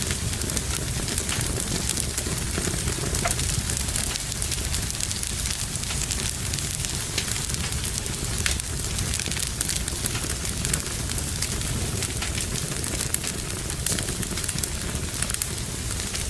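Wood fire crackling in a fireplace: a steady low rumble of the flames with frequent small snaps and pops.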